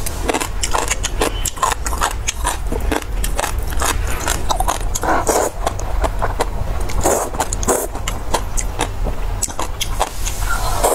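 Close-miked eating sounds: chewing with quick, irregular wet smacks and mouth clicks, over a steady low hum.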